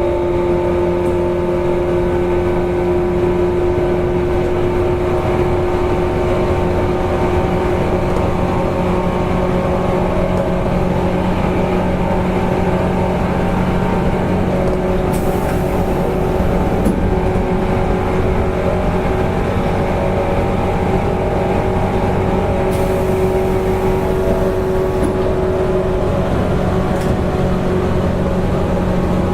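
Running sound of a 185 series electric multiple unit's motor car, MoHa 184-18, heard from on board: a steady traction motor and gear whine over wheel and rail rumble at an even speed. Twice a brief high hiss joins in.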